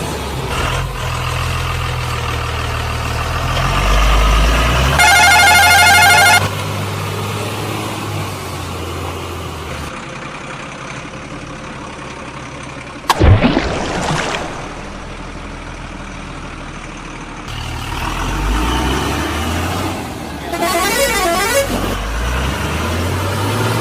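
Heavy truck engine running with a low steady hum, with two blasts of a warbling multi-tone horn, one a few seconds in and one near the end. About halfway through there is a single sudden loud bang.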